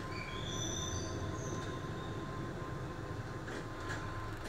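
Keihan electric commuter train rolling slowly into its terminal platform, heard from inside the front car: a steady low rumble, with several high-pitched squeals over the first two seconds as it brakes toward the buffer stop.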